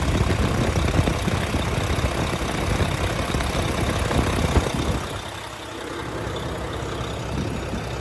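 Mack GU713 dump truck's diesel engine idling with a steady low pulse, heard up close under the open hood, then quieter about five seconds in. The seller finds zero blow-by from the crankcase.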